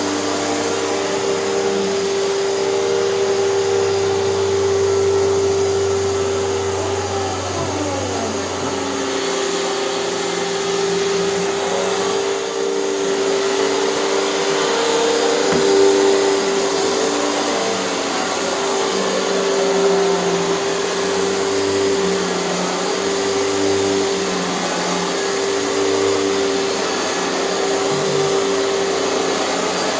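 Hoover canister vacuum running with a power nozzle: a steady motor whine over airflow noise. A lower hum holds for the first several seconds, then comes and goes.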